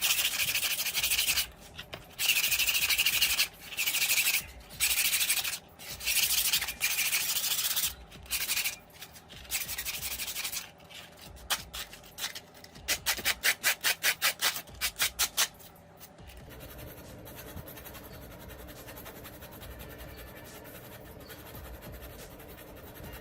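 Hand sanding of an old fan part: long rubbing strokes of abrasive on the surface, then a run of quick short strokes, about four a second, that stops about two thirds of the way in.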